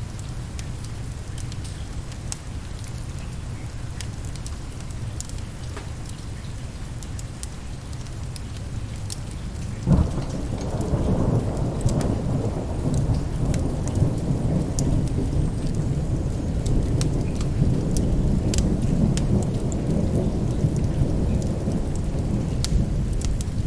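Steady rain with a low rumble, and a wood fire crackling in scattered sharp pops. About ten seconds in, a thunderclap breaks and rolls on as louder rumbling thunder.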